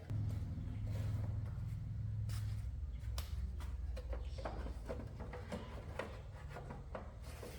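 A low steady hum that comes on at the start and eases down after about two and a half seconds, with scattered light clicks and taps over it.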